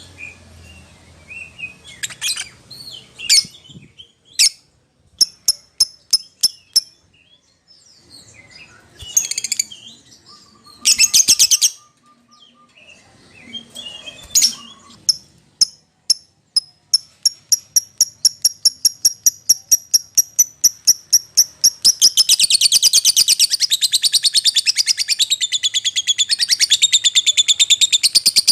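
Lovebird calling: sharp, separate high chirps at first, then a run of rapid chirps that speeds up about halfway through and turns into a dense, unbroken high chatter for the last several seconds.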